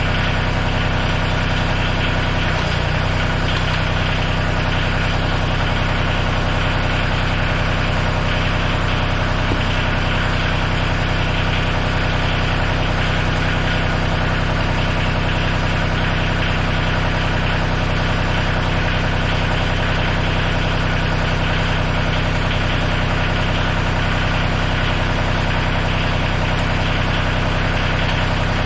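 Tractor engine running steadily at a constant speed, with no change in pitch or level.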